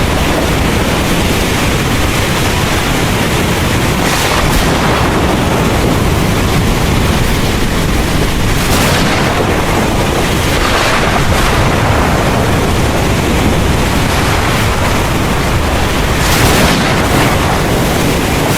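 Heavy rain pouring steadily over a continuous low rumble of thunder, with brief surges of louder hiss every few seconds.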